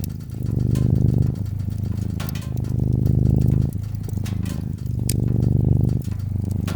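A domestic cat purring close up: a low, rumbling buzz that swells and eases with each breath in and out, about every second or so. Scattered sharp pops and crackles from a wood fire come through now and then.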